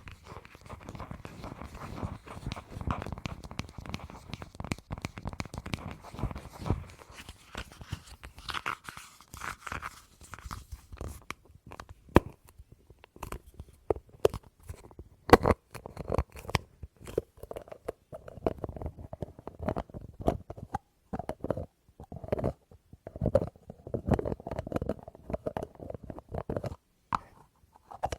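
Close-miked ASMR tapping and handling of a small object and its lid. For about the first ten seconds there is a dense, crackly scratching. After that come separate sharp taps and clicks, and in the last third many of them ring briefly with a tone.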